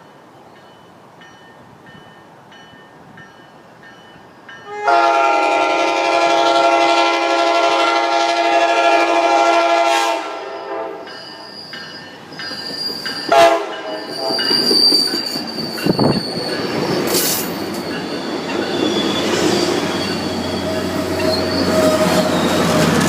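Tri-Rail commuter train arriving: its horn sounds one long, loud, multi-tone blast of about five seconds, starting about five seconds in. The wheels and brakes then squeal steadily over the rumble of the train pulling into the station.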